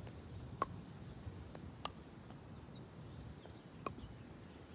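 Faint low background noise with a few separate sharp clicks, four in all.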